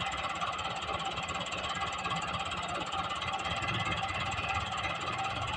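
Tractor engine running steadily, a rapid low chugging with a constant mechanical clatter over it.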